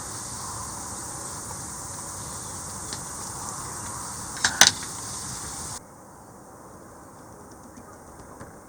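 Wood campfire crackling with a few sharp pops, the loudest a double pop about four and a half seconds in, over a steady high hiss. About two-thirds of the way through the sound cuts abruptly to a quieter background with only faint ticks.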